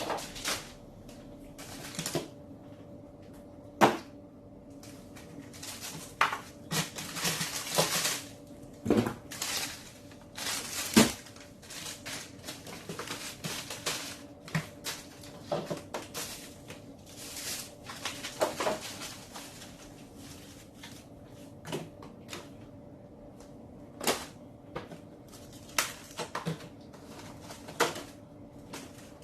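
Food containers, jars and packages being handled and taken out of a crowded refrigerator: scattered knocks, clinks and rustles, with a faint steady hum underneath.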